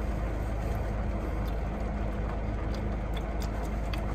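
Car engine idling, a steady low hum heard from inside the cabin, with a few faint clicks near the end.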